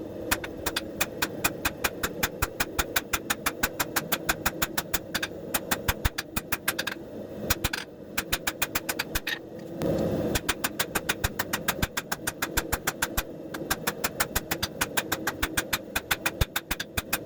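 Rapid, evenly spaced hammer blows on hot leaf-spring steel, about five or six a second in runs with short pauses, over a steady low rumble.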